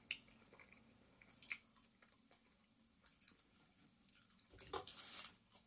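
Faint chewing and mouth sounds of a person eating, with a few soft clicks and a brief, louder noisy sound about four and a half seconds in.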